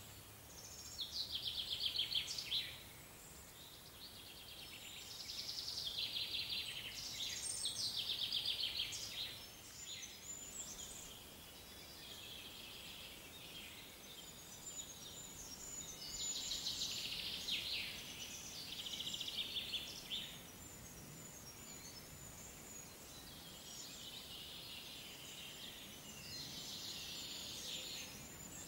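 Songbirds singing: a series of short, high trilled phrases a second or two long, repeating every few seconds over a faint steady outdoor background.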